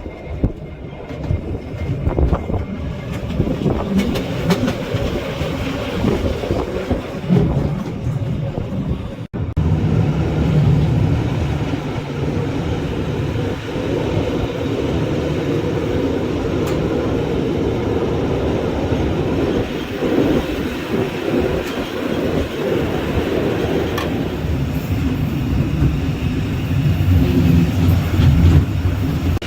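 Bernina Express train running along the track, a steady low rumble with rail noise. The sound drops out for an instant about nine seconds in, then resumes.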